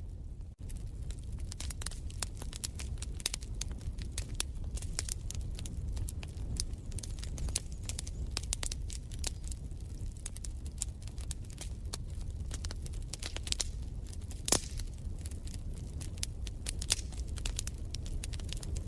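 Wood fire crackling in a fireplace: a dense run of small pops and snaps over a low steady rumble, with one louder pop about three quarters of the way through.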